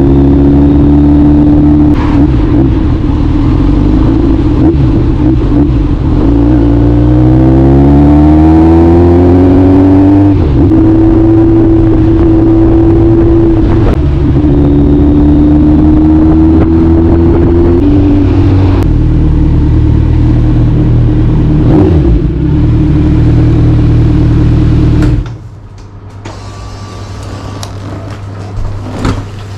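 A motor vehicle's engine running under way. Its pitch rises as it accelerates about a quarter of the way through, drops at a gear change, then holds steady. Near the end the engine note stops abruptly, leaving a low hum.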